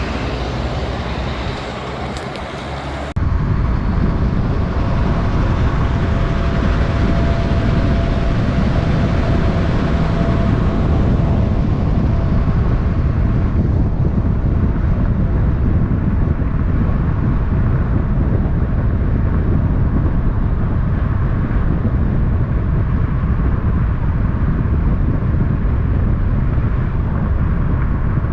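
Big-rig truck engine and road noise: a loud, steady low rumble that jumps in level and changes character abruptly about three seconds in.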